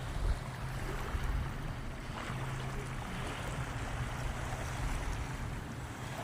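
Sea waves washing onto the shore, a steady rushing with wind rumbling on the microphone.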